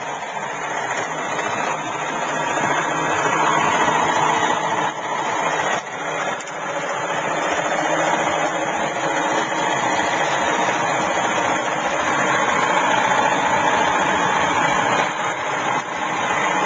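Homemade electric motor with a coil-driven neodymium-magnet rotor, running at high speed with a loud, steady whirring buzz, rattling the table it stands on.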